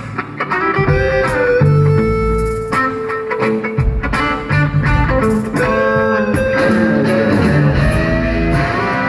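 Electric guitar playing an improvised lead solo, with single sustained notes and several string bends that glide up in pitch, over low bass notes.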